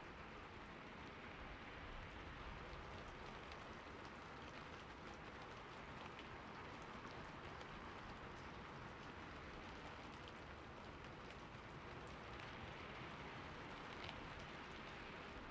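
Rain falling steadily on a roof, a soft even hiss with many small scattered drop ticks.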